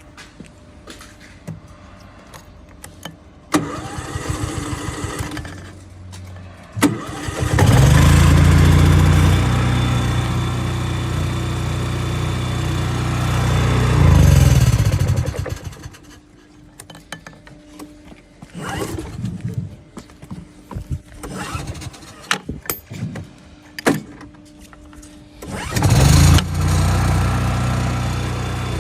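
The 8.5-horsepower petrol engine of an Iwata WREP-1500B engine-driven pressure washer starts and runs for about eight seconds, swells, then dies away. After some scattered knocks it starts again and runs on near the end.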